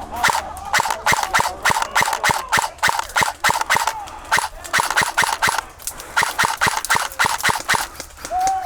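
Airsoft guns firing, a quick run of sharp shots several a second, with a short lull about six seconds in before the firing picks up again.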